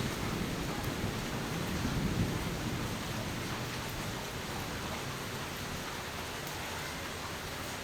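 Steady heavy rain, with the low rumble of a thunderclap dying away over the first two or three seconds.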